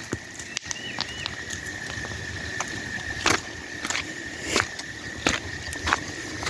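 Footsteps at a steady walking pace, one about every two thirds of a second, over a steady faint high whine, with a short bird chirp about a second in.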